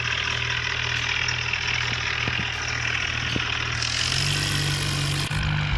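Tractor's diesel engine running steadily. About four seconds in, the engine note shifts and a high hiss joins it, and both cut off abruptly about a second later.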